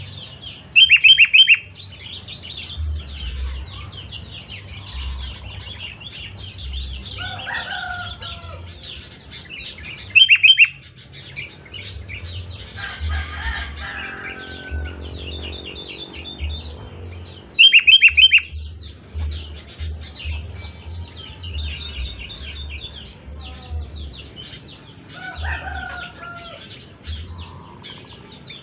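Sooty-headed bulbul calling loudly, three short bursts of calls about a second in, around 10 s and around 18 s, over continuous twittering chirps. A few lower calls also come in, around 8 s, 14 s and 25 s.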